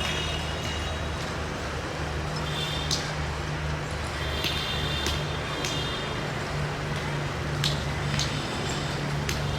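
Diesel-hauled passenger train rolling slowly: a steady low engine drone with sharp clicks and clanks every second or so, and a few short high-pitched squeals.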